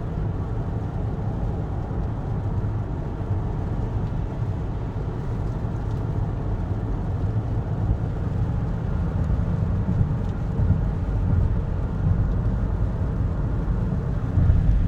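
Inside the cabin of a Honda Accord driving at about 60 mph on a rain-soaked road: a steady low rumble of tyres and road, with a fainter hiss of rain and spray above it.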